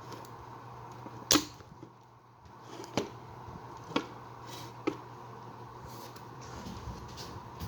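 A Ventisol Wind Comercial ceiling fan's electric motor humming steadily, with four sharp knocks or clicks at uneven intervals, the loudest about a second in.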